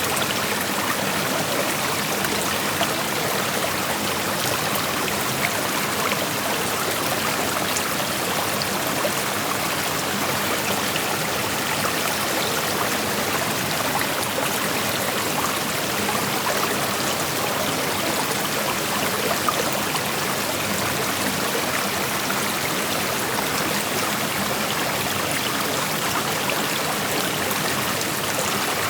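Shallow creek flowing over rocks: a steady rush of running water with small splashes and trickles throughout.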